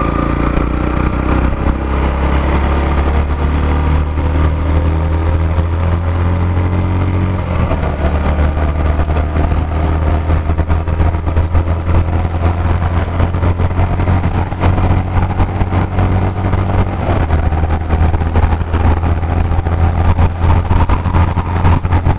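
Yamaha FZ-X's single-cylinder engine pulling under way with road and wind noise. Its pitch climbs over the first seven seconds or so, breaks at a gear change, then holds fairly steady at speed, reaching near 6000 rpm.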